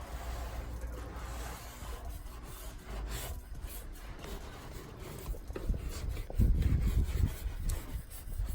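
Stiff brush scrubbing the floor of a van's cargo area, a continuous scratchy rubbing of strokes back and forth, with a few heavier low thuds about two-thirds of the way through.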